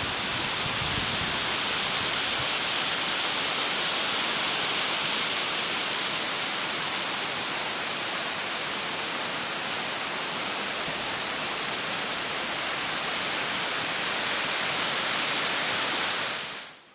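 Strong wind blowing, a steady hiss that cuts off abruptly near the end.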